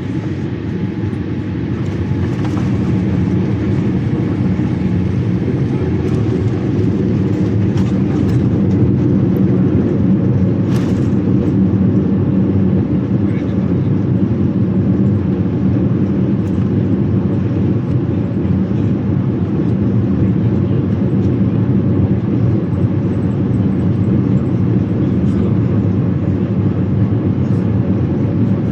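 Boeing 787-8 cabin noise on the approach to landing: a steady low rumble of engines and airflow, heard from inside the cabin, which grows louder over the first few seconds and then holds level.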